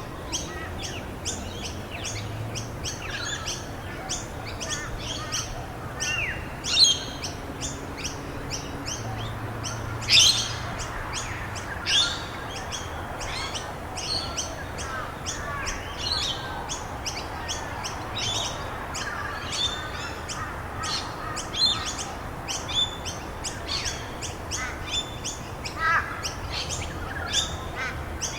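Birds chirping in quick, repeated high notes, with a few louder sweeping calls about seven and ten seconds in, over a steady background hiss of rain.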